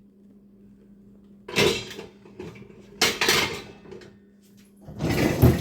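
Kitchen vessels and dishes being handled and knocked together, three short bouts of clattering, as just-washed pots are taken out of a dishwasher rack.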